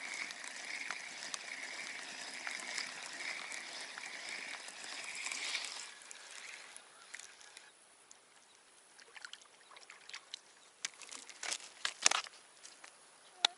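Outdoor ambience: a steady hiss with a pulsing high chirr for about six seconds, then it drops suddenly to a quieter background with scattered clicks and rustles, the sharpest about twelve seconds in.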